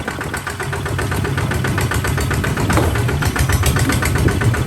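Kubota RT140 DI single-cylinder diesel engine running with a steady, rapid knocking beat, a little louder after about a second.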